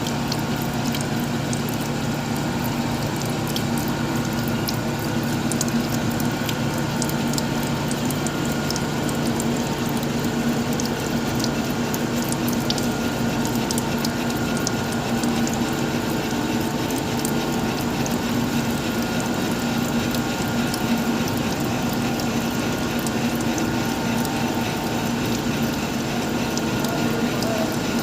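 Electric arc welding laying down a hard-facing build-up: the arc gives a dense, steady crackle over a steady low hum.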